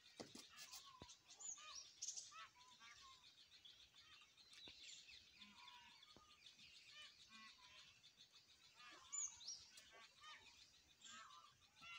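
Faint birdsong: several small birds chirping and calling with short, quick notes, and a couple of sharper high whistles near the end.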